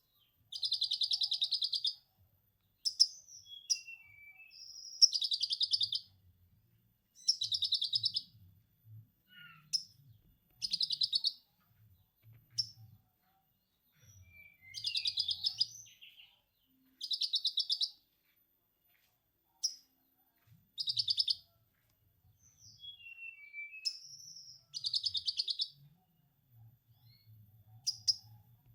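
Konin songbird singing in lovebird 'ngekek' style: about eight rapid chattering trills, each about a second long and a few seconds apart, with short whistled chirps and glides between them.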